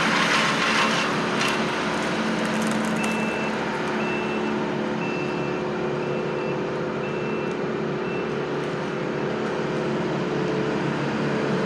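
A large vehicle's engine running steadily. Its back-up alarm beeps about once a second, six times, starting about three seconds in.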